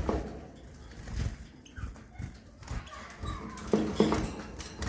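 Caged European goldfinches: scattered short calls mixed with light knocks, busiest near the end.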